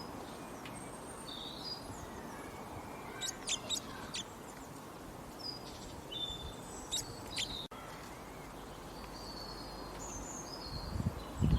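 Wild birds chirping: short scattered chirps, whistles and sharp high notes every second or so over a steady background hiss. Near the end come a couple of low thumps.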